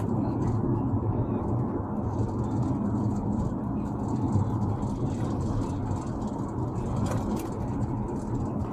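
A car engine running, a steady low hum that does not change.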